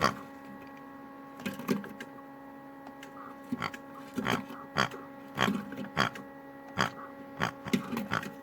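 LG washing machine running with a steady motor hum, while Kinder Surprise eggs tumble in the drum and knock and clatter at irregular moments, often several times a second.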